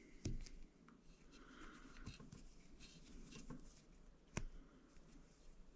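Faint handling of small shower valve parts: light taps and rustle, with a sharper click just after the start and another a little past four seconds in.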